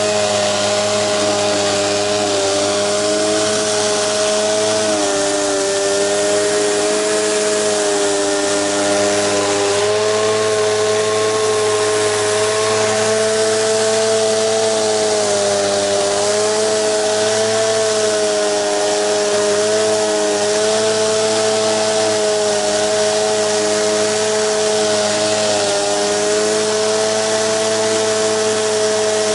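Gas-engine pressure washer running steadily under load, its engine hum wavering slightly in pitch, with the hiss of the high-pressure water spray.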